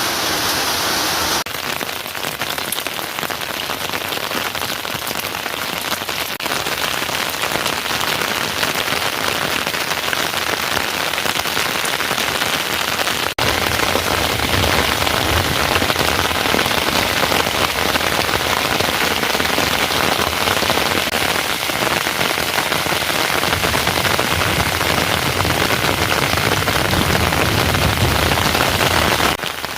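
Heavy rain falling: a dense, steady hiss of rain on surfaces. It changes abruptly about a second and a half in and again about halfway through, and is louder and fuller in the low end after the second change.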